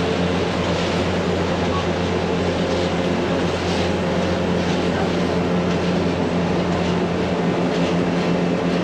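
Electric cog-railway train to Rochers-de-Naye running: a steady low motor hum under even rolling noise.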